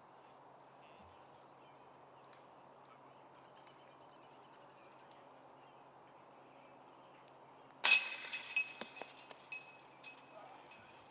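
Quiet outdoor ambience with a bird chirping briefly, then a sudden loud hit about eight seconds in, followed by a couple of seconds of fading jangling rattle with a metallic ring.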